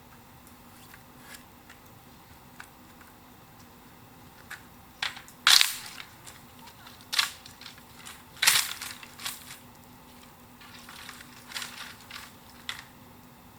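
Dry bamboo cracking and snapping in a string of irregular sharp cracks, two of them louder than the rest, with fainter clicks between.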